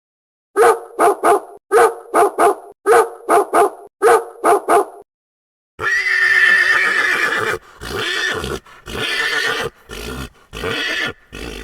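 Animal calls: four quick sets of three short, pitched calls, then after a brief gap a longer, louder drawn-out call broken into several parts.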